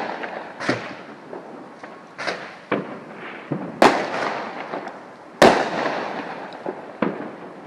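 Fireworks going off: a quick run of sharp bangs and cracks, each fading away over a second or so, the two loudest about four and five and a half seconds in.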